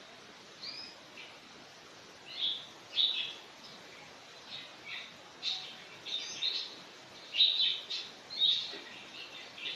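Small birds chirping: short, high calls come irregularly, starting about half a second in and growing more frequent and louder in the second half, over a steady hiss.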